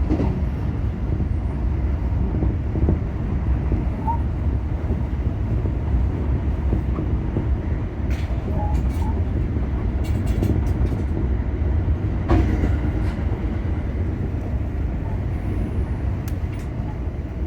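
JR West 225 series electric train: a steady low rumble, with a few sharp clicks and knocks, the loudest about twelve seconds in.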